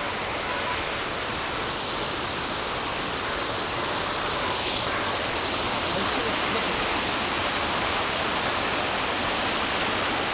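Waterfall rushing in a steady roar of falling water, growing a little louder partway through.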